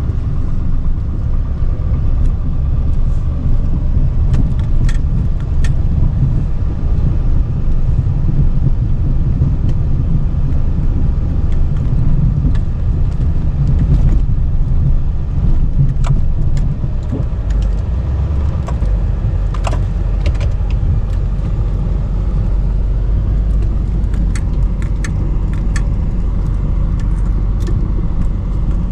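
Chevy Duramax turbo-diesel V8 of a dually pickup running as the truck drives, a steady low rumble with scattered light clicks and rattles.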